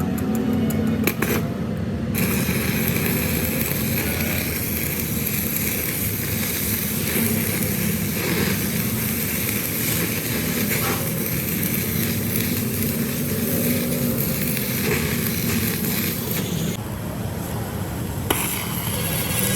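Steady workshop machinery hum with a broad hiss over it. The hiss comes in about two seconds in and drops out briefly near the end, with a click as it returns.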